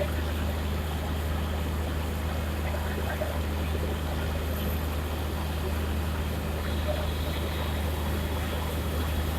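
Standing locomotive running at idle, a steady low hum that does not change.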